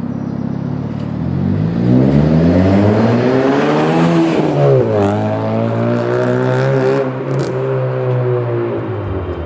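Honda Civic's R18 1.8-litre four-cylinder engine through a loud custom exhaust: the revs climb, drop sharply about five seconds in, then hold steady before easing off near the end.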